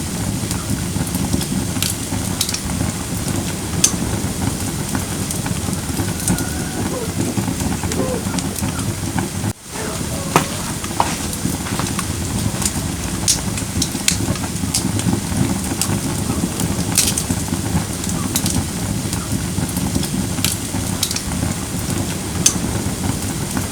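Firewood burning in a fire pit: a steady low rush of flame with scattered sharp crackles and pops. The sound briefly drops out about nine and a half seconds in.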